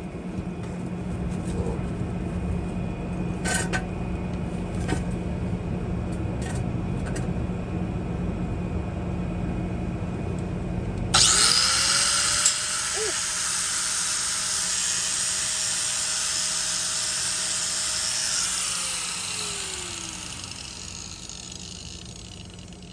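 A low steady hum with a few light clanks. Then, about eleven seconds in, a handheld power tool spins up suddenly and runs at a steady pitch with a loud hiss, as it would cutting into metal exhaust pipe. Near the end it winds down over a couple of seconds.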